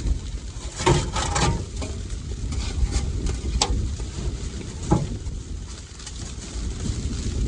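Blizzard wind rumbling steadily on the microphone, with a few sharp knocks and clicks in the first five seconds.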